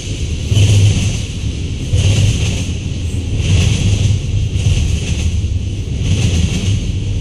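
Cars of a manifest freight train rolling past: a steady rumble and wheel-on-rail clatter that swells and fades in a regular rhythm, about every second and a half.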